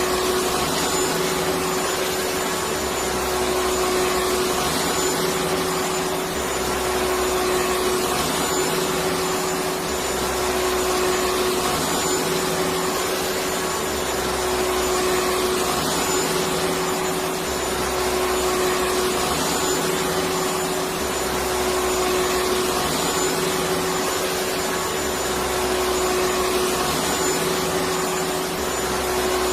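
Electric vacuum cleaner running steadily: a continuous rushing air noise with a steady motor hum, unbroken throughout.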